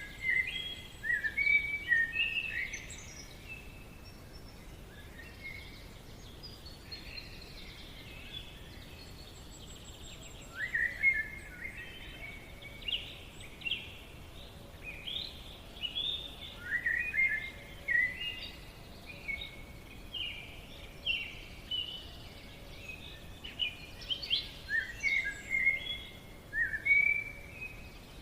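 Songbirds singing: quick, bright chirping phrases in clusters, with a lull of several seconds after the first few, over a faint steady background hiss.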